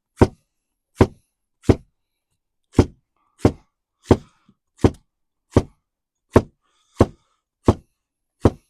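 Knife chopping through zucchini onto a cutting board, about a dozen sharp strikes at a steady pace of roughly one every two-thirds of a second.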